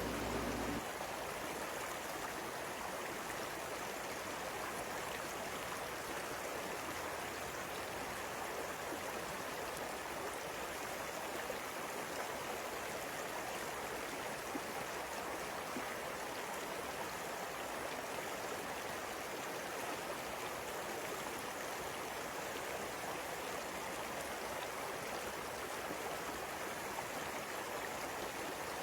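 River water flowing steadily: an even hiss that does not change.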